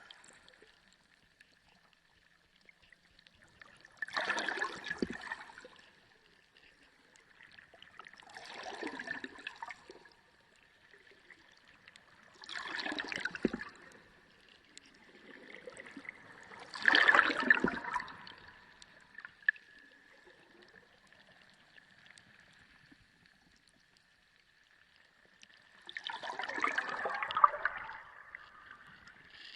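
Underwater ocean sound: five swells of rushing, gurgling water a few seconds apart, the loudest in the middle and a longer pause before the last, over a faint steady high tone.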